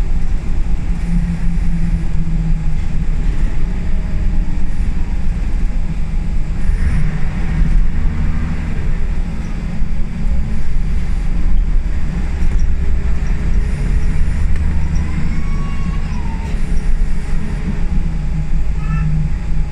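Scania L94UB single-decker bus heard from inside the saloon on the move: a steady low engine drone and road rumble, with the engine note swelling and easing several times.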